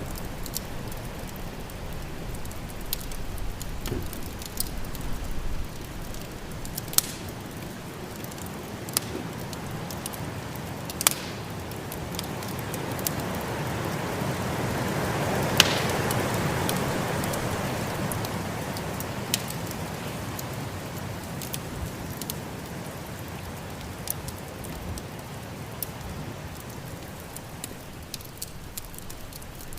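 Wood fire crackling with scattered sharp pops, over a steady rush of snowstorm wind that swells to a peak about halfway through and then eases off.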